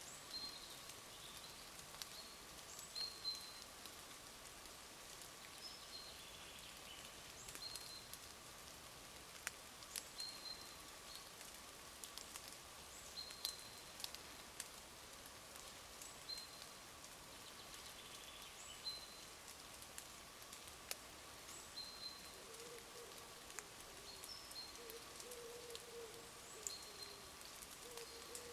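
Light rain in a woodland: scattered drops ticking on leaves, with birds calling in short high notes every second or two. From about two-thirds of the way through, a lower wavering call joins in.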